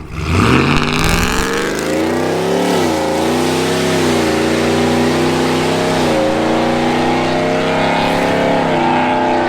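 Supercharged 5.0 L V8 of a 2021 Ford F-150 with a Corsa Extreme cat-back exhaust, long-tube headers and high-flow cats, in a medium-throttle takeoff. The exhaust note climbs sharply in the first second, then holds loud, its pitch dipping and climbing again a few times.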